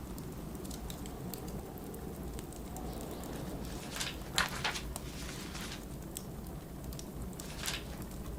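Fireplace crackling with scattered sharp pops over a steady low rumble of blizzard wind. Two brief paper rustles of a book's pages turning come about four seconds in and again near the end.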